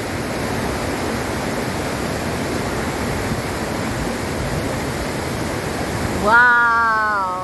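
Steady rushing of a large waterfall, a dense even wash of noise that cuts off abruptly about six seconds in.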